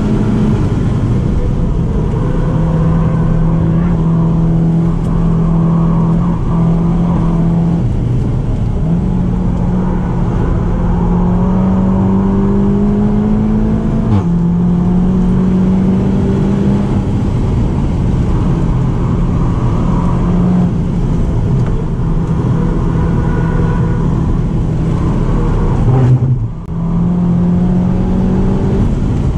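Seat Leon Cupra 290's turbocharged 2.0-litre four-cylinder heard from inside the cabin, held under load at high revs over steady road and tyre noise. The engine pitch jumps up and down in sudden steps as the DSG gearbox changes gear. One long rise in pitch ends in an abrupt drop, and a brief loud burst with a sudden dip comes near the end.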